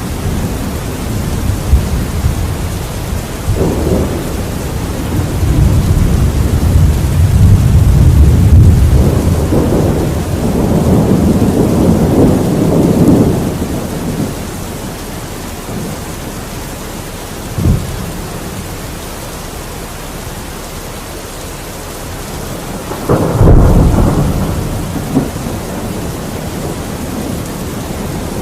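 Thunderstorm: steady rain hiss with rolling thunder, a long deep rumble swelling and fading over several seconds, a short crack midway, and a louder clap about three-quarters through that rumbles away.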